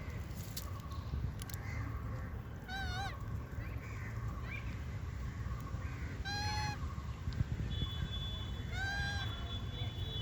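Three short, high, wavering calls from a monkey, spaced about three seconds apart, over a low steady rumble.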